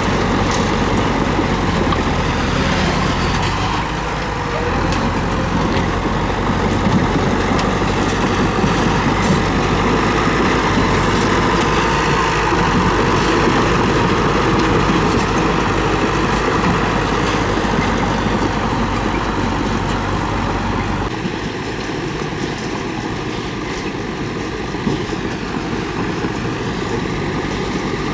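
Komatsu D31P bulldozer's diesel engine running steadily under work. About 21 seconds in, the deep low rumble drops away abruptly while the higher engine noise carries on.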